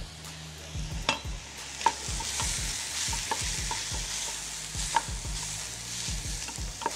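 Onions and carrots sizzling in a stainless steel pot while a wooden spoon stirs them, with a handful of sharp knocks of utensils against the pots.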